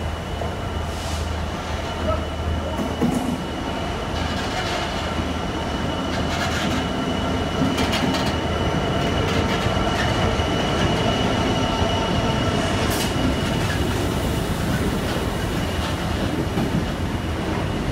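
GB Railfreight Class 66 diesel locomotive, with its EMD two-stroke V12, running as it draws along the platform and past. Its covered hopper wagons then roll by, clicking over the rail joints, with a thin, steady high squeal from the wheels.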